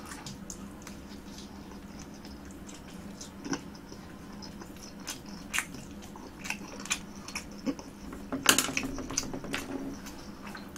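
A person chewing a mouthful of food close to the microphone: soft wet smacking and scattered clicks. The chewing gets louder for a moment about eight and a half seconds in.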